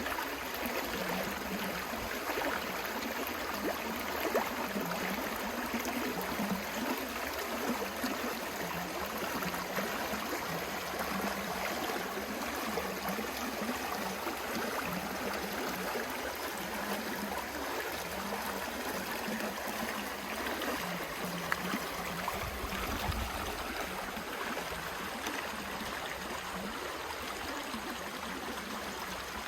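Steady rush of flowing river water, an even hiss that runs without a break.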